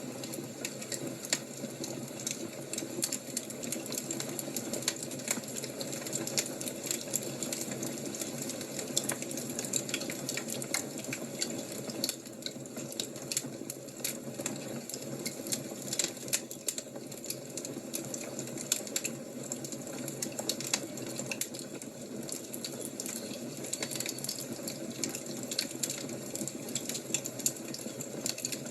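Wood fire crackling steadily, with irregular sharp pops and snaps over a constant hiss.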